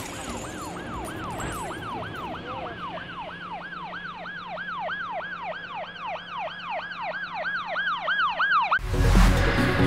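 Emergency vehicle siren in a fast yelp, its pitch sweeping about four times a second over a faint steady hum. It cuts off suddenly near the end, where a louder, noisy sound takes over.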